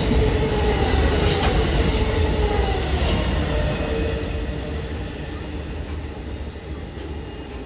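Train rolling past on the rails, a heavy rumble with its wheels squealing in thin wavering tones. The sound fades steadily as the train moves away.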